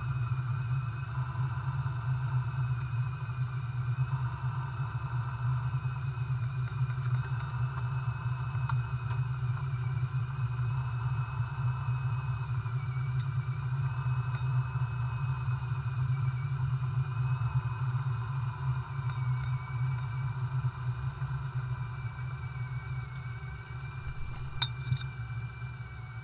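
Twin-turbo Mustang's engine running steadily at low revs with a deep rumble, a thin whine wavering above it. It eases off slightly near the end.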